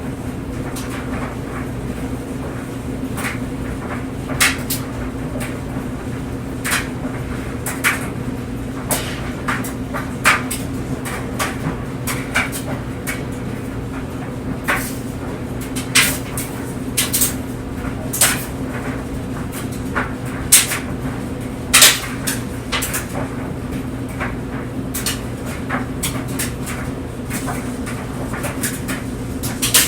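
Clothes dryer running with clothes tumbling in the drum: a steady motor hum with irregular knocks and clicks as the load falls and hits the drum, a few louder knocks around the middle.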